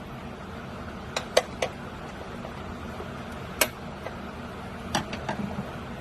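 A handful of short, sharp metallic clinks and taps from hand tools or metal parts being handled, over a steady low hum: a group of three a little over a second in, one near the middle and a few more near the end.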